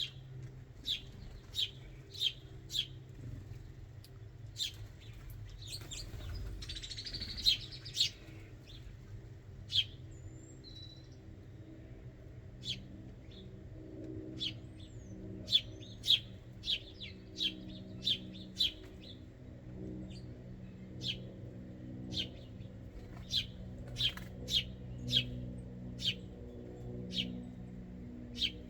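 Backyard songbirds giving short, sharp chirps and chip notes, dozens of them at irregular intervals, over a steady low background hum.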